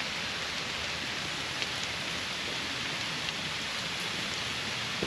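Steady rain falling, with a few individual drops ticking now and then.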